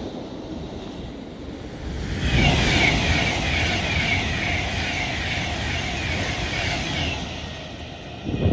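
A train passing on the main line: a steady rumble with a high wavering whine that comes in about two seconds in and fades out near the end, followed by a short thump.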